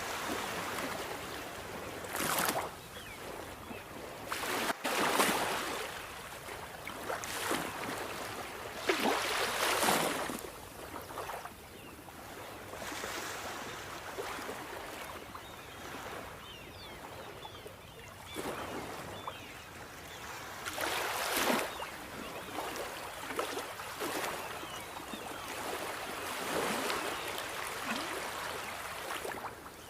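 Sea waves breaking and washing ashore: irregular swells of surf every few seconds, with a continuous hissing wash between them.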